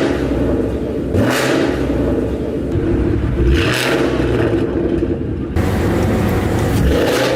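Ford Mustang GT V8 with a loud aftermarket exhaust, driving and accelerating. The engine note changes abruptly about three times, with brief rushes of noise in between.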